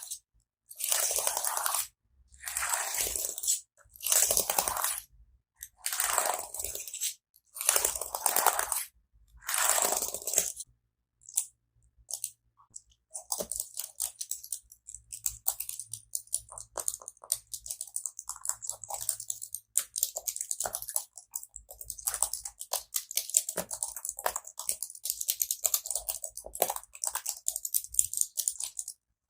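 Close-miked ASMR trigger sounds with no music or voice. First comes a series of roughly one-second crunchy, scratchy strokes with short pauses between them. About halfway through they give way to a dense run of fast crackling clicks.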